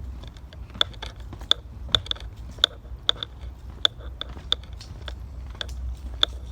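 Footsteps crunching on a path at a walking pace, a sharp crunch every half second or so, over a low rumble.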